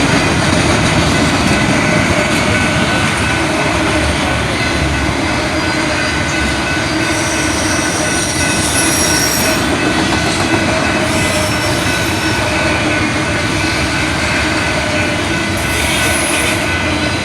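Train cars rolling past close by, a loud steady rumble of wheels on rail. High-pitched wheel squeals come in about halfway through and again near the end.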